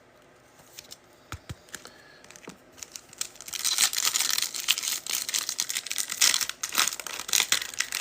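A few light clicks, then from about three and a half seconds in the crinkling and tearing of a foil trading-card pack wrapper being ripped open.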